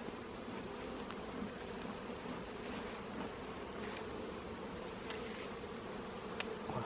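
Honeybee colony humming steadily in a freshly opened hive, an even drone with a few faint clicks scattered through it.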